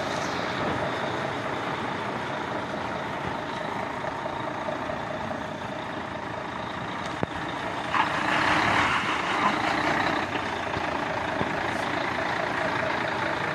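Mercedes-Benz Actros truck running steadily, with a louder hiss lasting about two seconds starting some eight seconds in.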